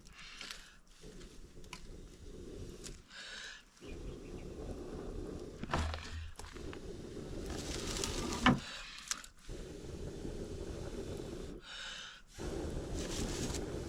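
A wood cooking fire being kindled and tended: rustling and scraping of firewood, a rough steady noise that drops out briefly several times, and one sharp snap about eight and a half seconds in.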